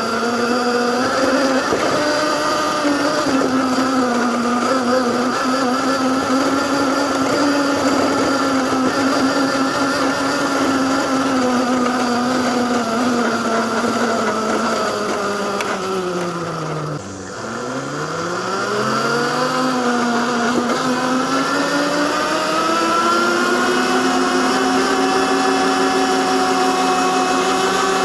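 Whine of the QLife E8 electric dirt bike's 48 V mid-drive motor and drivetrain while riding. The pitch is steady, falls sharply as the bike slows about two-thirds of the way in, then rises again as it speeds back up.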